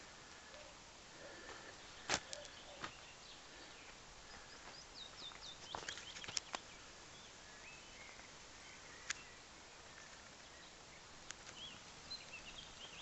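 Small birds chirping and calling in short rising and falling notes, with a few sharp clicks scattered through, the loudest about two seconds in.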